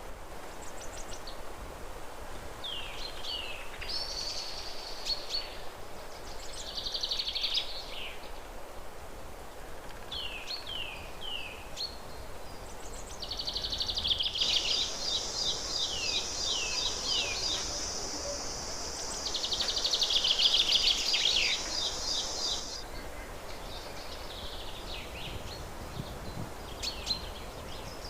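Small birds singing in short repeated phrases of quick downward-slurred whistled notes. For several seconds in the middle a steady high-pitched hiss sits under the song, then cuts off abruptly.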